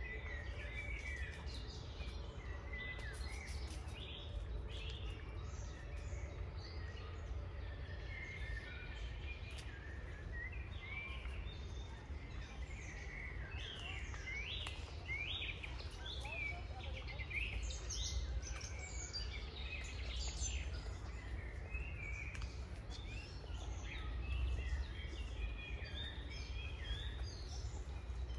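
Several songbirds singing and chirping, with many short, quick notes that are busiest in the middle, over a steady low rumble.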